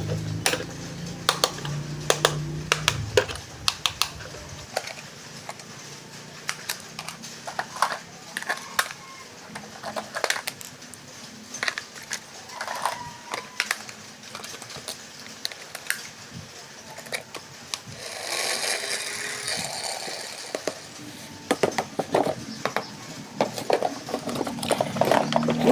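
Handling of toys and their plastic and cardboard packaging: scattered sharp clicks and taps, with a short stretch of hiss about eighteen seconds in.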